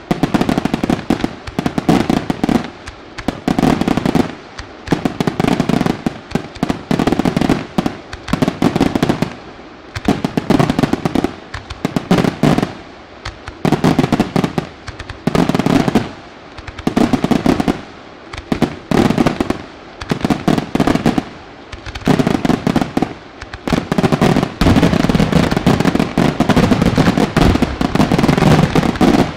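Aerial firework shells bursting in rapid volleys: clusters of bangs about every second or two, building into a continuous barrage over the last few seconds.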